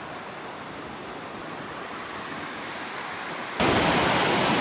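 Steady rushing of a mountain beck. About three and a half seconds in it cuts abruptly to a much louder rush.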